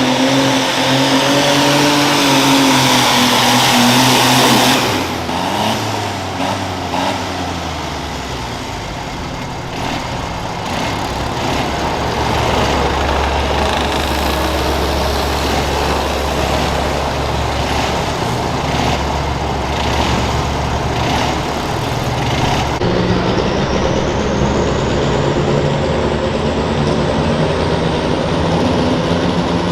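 Pulling garden tractor engines running hard under load, the engine note wavering and changing as runs go on, with a deep steady rumble in the middle. Near the end a high whine rises slowly over the engine.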